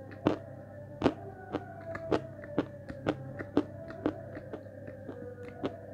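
Crunching while chewing a hard, brittle white chunk of Znamensky edible chalk: sharp crunches about twice a second. Under it is a faint, long wavering tone that slowly falls in pitch.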